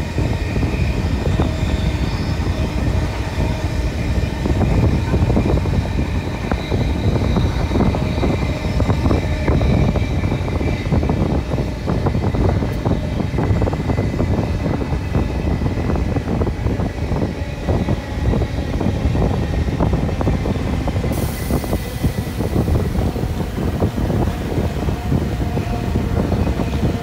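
Passenger train running at speed, heard from an open carriage window: a steady rumble of wheels on rails with a dense rapid clatter and wind. A high hiss joins about two-thirds of the way through.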